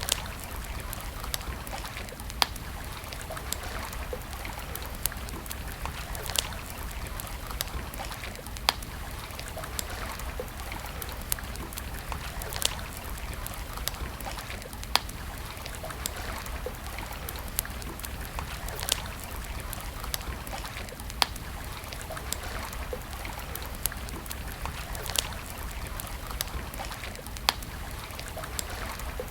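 Wood campfire crackling, with irregular sharp pops about every second or two over a steady hiss.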